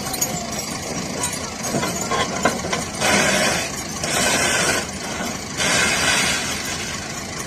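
Tractor engine running, with scattered clicks and knocks, then three loud bursts of rushing noise, each under a second long, in the second half.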